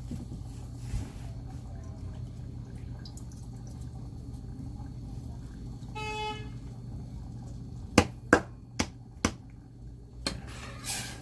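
A steady low hum, a short single beep about halfway through, then four sharp knocks in quick succession, with two softer ones near the end. The knocks sound like kitchen utensils struck against a pot or bowl.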